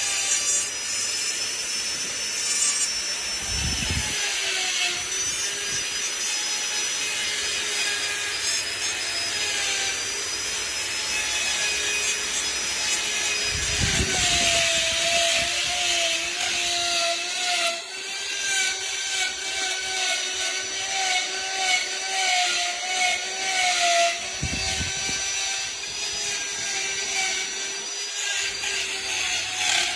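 A power carving tool running continuously and grinding into wood, with a steady motor hum that wavers slightly in pitch under a gritty abrasive hiss, and a few brief low knocks.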